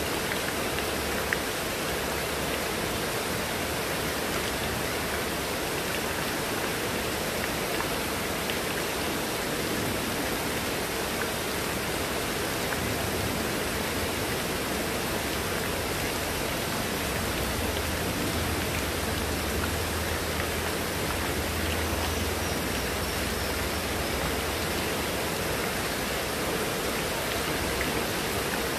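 Heavy rain falling steadily, with runoff streaming off a roof edge. A faint low rumble sits beneath it in the second half.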